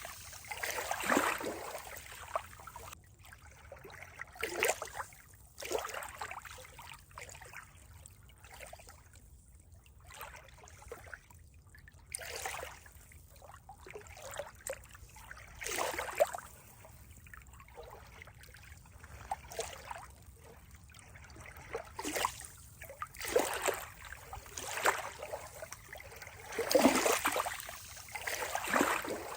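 Water splashing and trickling in irregular surges a second or few apart, with quieter stretches between.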